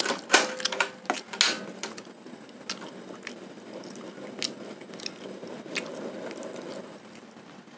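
Close-miked chewing and mouth sounds of a man eating soft grilled sate kere, skewered oncom or tempe gembus. A few loud sharp clicks come in the first second and a half, and the wet, smacking chewing runs on with only an odd click.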